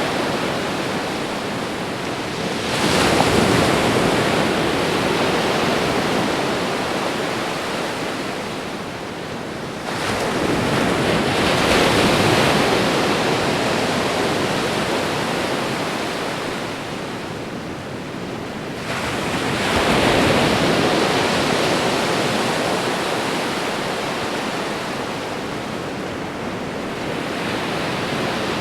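Ocean waves breaking on a shore: a continuous rush of surf that swells three times, about every eight seconds, each wave rising quickly and then slowly fading.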